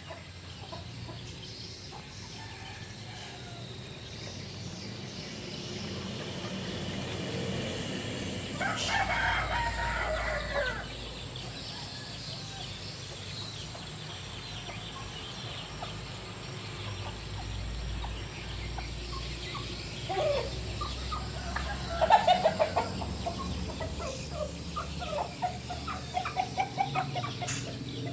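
Free-range village chickens clucking, with a rooster crowing once about nine seconds in. Several sharp loud calls come later, followed by a quick run of short clucks near the end.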